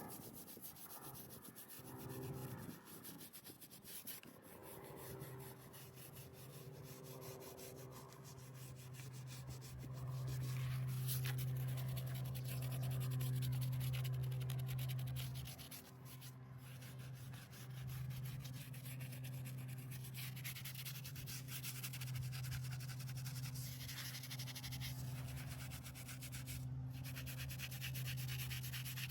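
Scrubbing on a stone headstone in rapid, repeated strokes, with a steady low hum underneath that grows louder for a few seconds near the middle.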